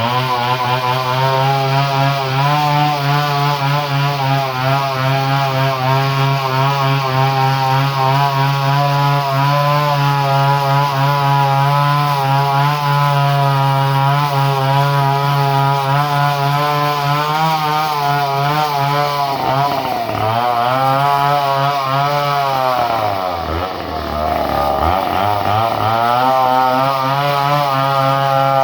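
Two-stroke chainsaw engine running at high, steady revs. Near the end its speed drops twice and climbs back.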